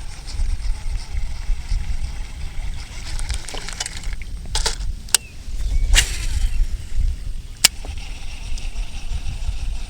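Strong wind buffeting the microphone, a steady low rumble, with a few sharp clicks about halfway through.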